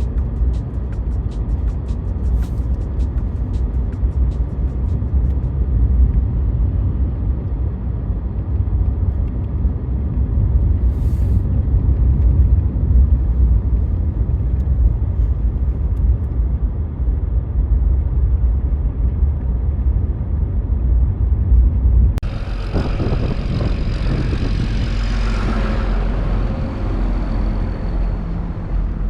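A car driving on snow, with a steady low rumble of engine and road noise. About 22 seconds in, the sound changes abruptly to a brighter, hissing noise.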